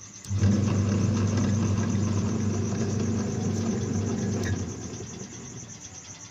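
Electric motor switched on by the washing-machine timer, running with a steady mains hum for about four seconds, then cut off and fading down.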